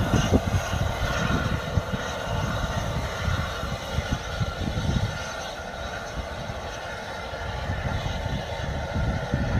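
A train running along the line, a heavy rumble that eases off about halfway through.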